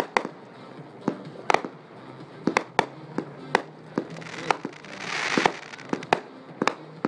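Two 200-gram consumer firework cakes firing together: a dozen or more sharp bangs of shots launching and breaking at uneven intervals, with a swell of hissing crackle about five seconds in.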